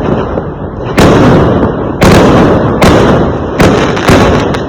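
Fireworks exploding: five loud booms in quick succession, roughly a second apart, each starting sharply and trailing off in a rumble that overlaps the next.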